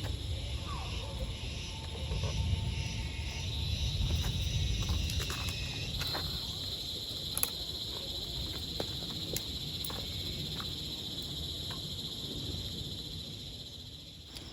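Steady high-pitched chirring of insects, with a low rumble underneath and a few scattered light clicks.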